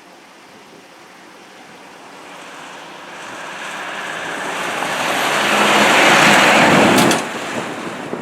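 A road vehicle driving past close by. Its tyre and road noise builds steadily for several seconds, peaks, then drops away suddenly about seven seconds in.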